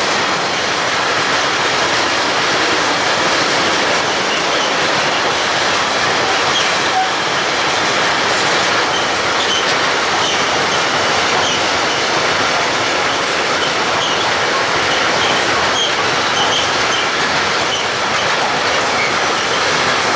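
Freight train of tank wagons rolling past, a steady loud noise of wheels on rails with faint short high squeaks from the wheels.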